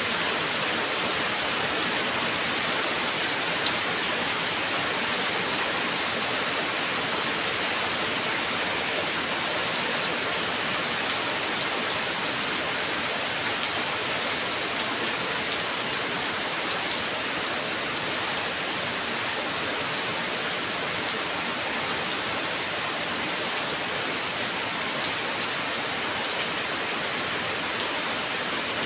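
Heavy rain falling steadily: a dense, even hiss of rain with faint ticks of individual drops, unchanging throughout.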